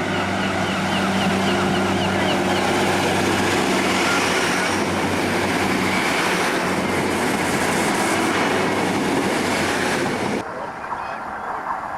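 Diesel train passing close by: a steady engine hum under loud wheel and rail noise, cutting off suddenly about ten seconds in.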